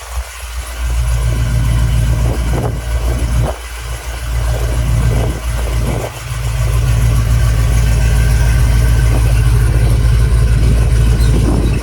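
1985 Chevrolet C10 pickup's engine running. Its loudness drops and comes back a few times in the first six seconds, then it holds steady.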